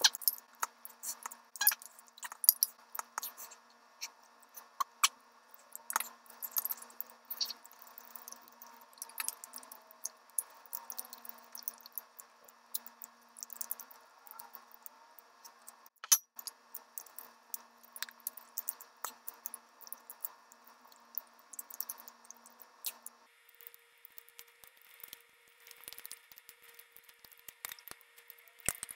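Close-miked eating sounds of roast chicken being chewed: irregular wet smacks and sharp clicks of the mouth, with now and then a fork clinking against the glass baking dish.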